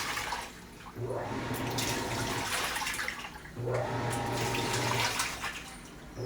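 Panasonic Titânio 12 kg top-loading washing machine agitating a load in water. The motor hums in bursts of about a second and a half, each one starting with a rising whine, with short pauses between bursts as the agitation reverses. Water sloshes in the tub throughout.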